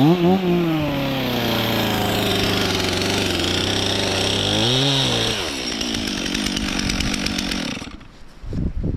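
Stihl MS 362 C two-stroke chainsaw revving up, then running at a steady pitch as it cuts birch wood. The pitch rises and falls briefly near five seconds in, and the saw's sound drops off sharply about eight seconds in.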